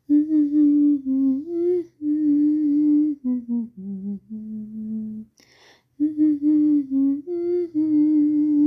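A person humming a slow Sinhala song melody without words, in long held notes that step up and down, with a quick breath taken about five and a half seconds in.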